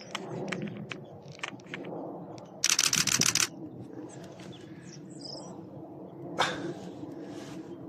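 Camera shutter firing a rapid burst of clicks lasting just under a second, about two and a half seconds in.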